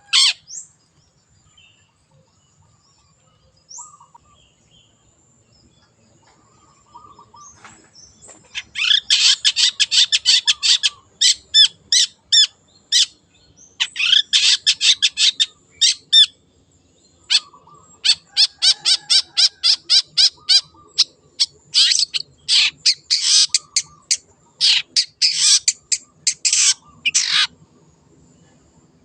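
Long-tailed shrike (cendet) singing. After a few quiet seconds with only faint short calls, it breaks into rapid runs of high chattering notes, about eight a second. The runs come in bursts of one to three seconds with short pauses between.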